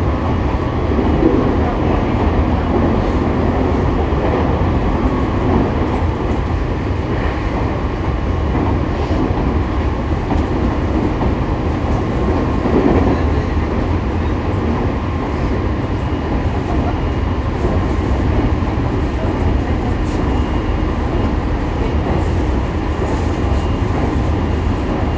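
Inside a JR East E501-series electric train's motor car (MoHa E501-3) running between stations: a steady rumble of wheels on the rails and the car's running gear, with a faint steady whine from the traction equipment.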